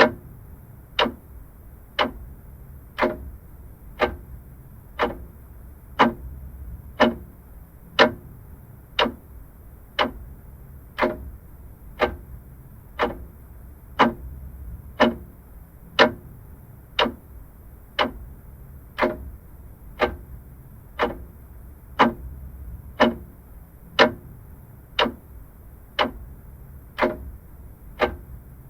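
Vintage mechanical clock ticking steadily, one tick a second, the strokes alternating slightly in tone like a tick and a tock.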